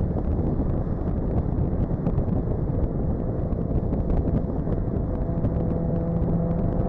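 Turbocharged 2JZ-GTE straight-six in a Lexus SC300 cruising at a steady highway speed, with heavy road noise. About five seconds in, a steady engine tone comes up out of the noise and holds.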